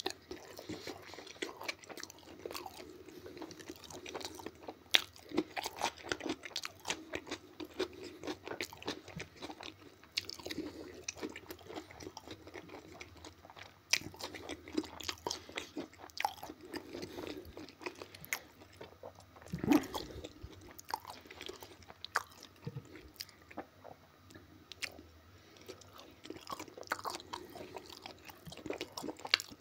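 Close-up chewing of Korean-style pig ears and fried potatoes: a run of short, sharp crunches of the ear cartilage, with one louder click about twenty seconds in.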